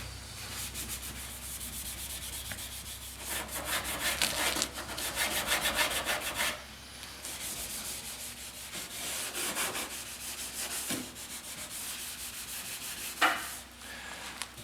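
Hand sanding of primer on a car body panel with 400-grit sandpaper: a rhythm of back-and-forth scratching strokes, louder in the middle stretch, with one sharper stroke near the end.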